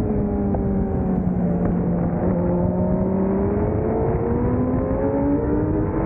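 600cc race motorcycle engine under way at race pace, over a heavy rushing noise. The revs sag for about two seconds, then climb steadily again.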